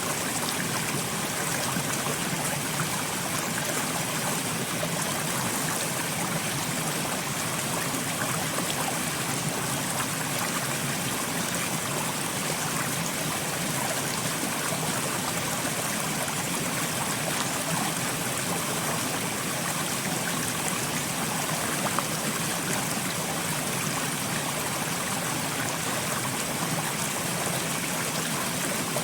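Steady rain, an even hiss of falling drops that does not change, with one slightly louder drop about 22 seconds in.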